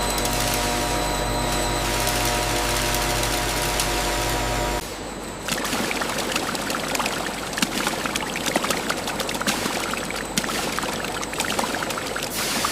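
A machine running with a steady hum, cut off about five seconds in by a rushing, crackling sound like pouring or splashing liquid with many small clicks.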